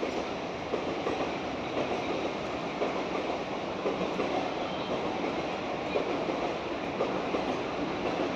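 Mumbai suburban local electric train running past: a steady rolling rumble of wheels on the rails, with frequent irregular clicks as the wheels pass over rail joints.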